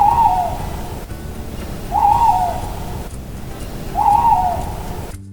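Owl hooting: three hoots about two seconds apart.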